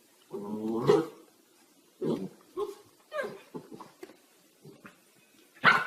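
A dog making a series of short vocal sounds, the longest near the start and a sharper one near the end.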